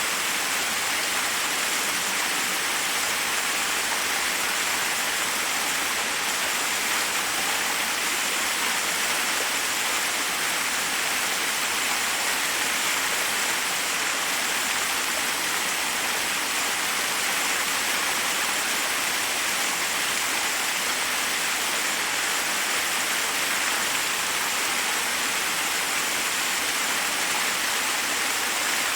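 Forest waterfall: water cascading over rocks in a steady, even rush with no change.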